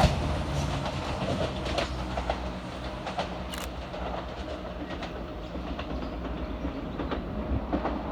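ScotRail Class 170 Turbostar diesel multiple unit passing through at speed: a steady low rumble with the wheels clicking irregularly over the rail joints.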